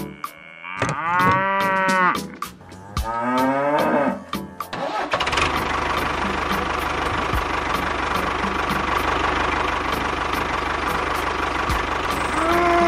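A cow mooing twice, each call rising and falling in pitch, then a small engine running steadily from about five seconds in, with a short moo near the end.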